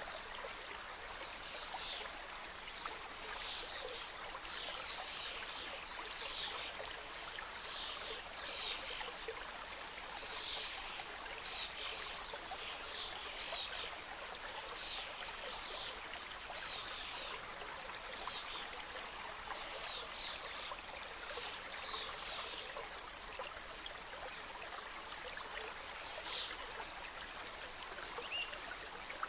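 Small mountain stream cascading over rocks: a steady rush of water with many quick bright splashes and trickles over it.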